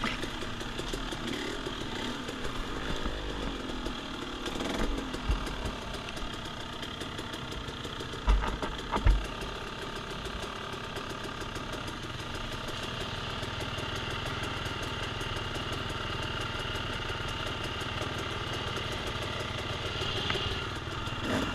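Off-road dirt bike engine running, its pitch rising and falling in the first few seconds and then holding a steadier note. There are two sharp low knocks about eight and nine seconds in.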